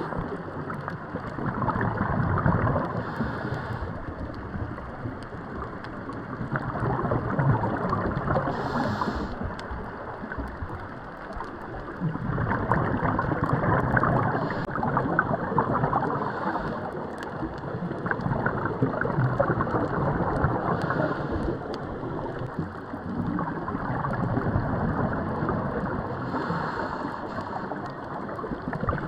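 Muffled rushing and sloshing of water around a boat. It swells and fades every few seconds, like waves lapping and splashing.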